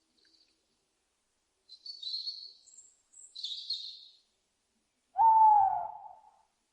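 Owls calling: two short raspy screeches, then one louder, lower hoot that falls slightly in pitch near the end.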